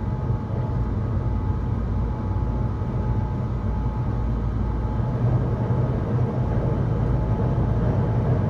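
Keihan 800-series train running, heard from inside the car: a steady low rumble with a faint steady whine.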